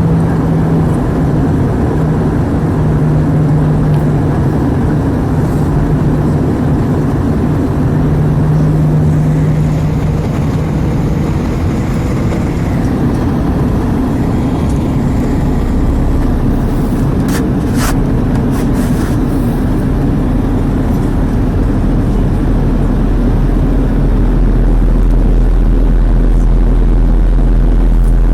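Airbus A320 cabin noise in flight: a loud, steady engine and airflow drone with a low hum through the first half. There are a couple of small clicks about two-thirds through, and a deep rumble grows louder near the end.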